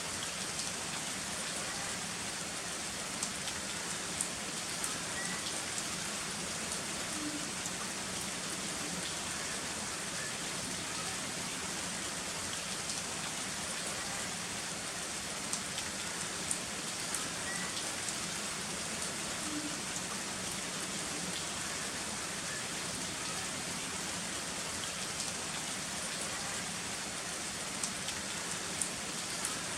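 Heavy rain falling steadily, a dense even hiss with scattered sharp ticks of single drops striking close by.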